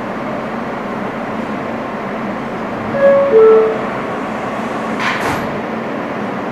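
Inside an R160 subway car, the train runs with a steady rumble. About three seconds in, a two-note chime steps down in pitch, the car's door-closing chime. About five seconds in there is a brief hiss.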